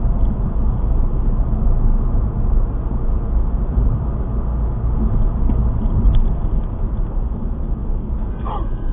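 Steady road and engine rumble recorded by a car dashcam's microphone while driving, with a faint short wavering sound near the end.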